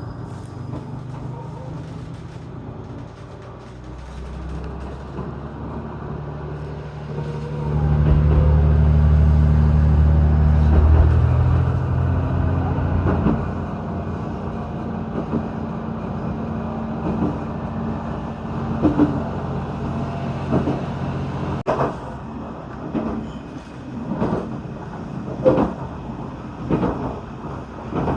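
Diesel engine of a JR Shikoku 2000 series tilting diesel railcar running, its note swelling louder about eight seconds in and easing off a few seconds later. Later the wheels click over rail joints at a steady pace.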